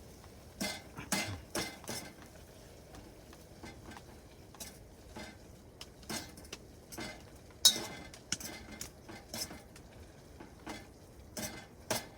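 Utensils clinking and knocking against cookware and dishes: a dozen or so irregular sharp clinks, the loudest about two thirds of the way through.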